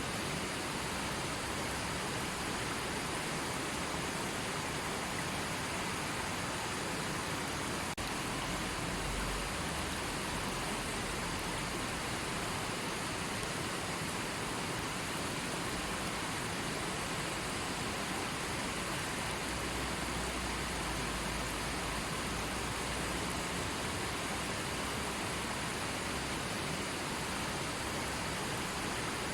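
Steady rush of flowing river water, one even, unbroken sound, with a brief low rumble about eight seconds in and again around twenty seconds.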